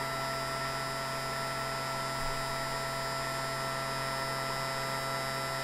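Steady electrical hum with several constant whining tones over a light hiss, unchanging throughout, with no click or start-up.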